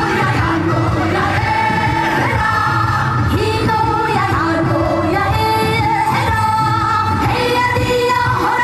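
A woman singing a trot song live over an amplified band accompaniment, holding long notes.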